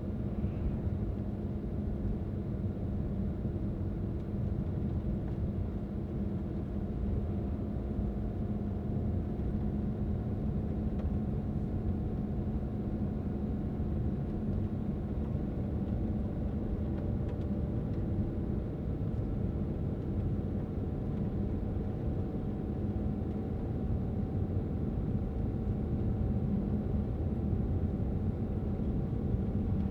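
A car being driven, its engine and tyres making a steady low rumble. A faint hum slowly rises in pitch over the second half.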